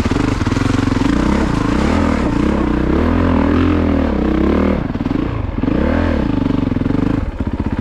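2022 Honda CRF450RX's single-cylinder four-stroke engine running under changing throttle, revving up and falling back several times, with a short dip near the end.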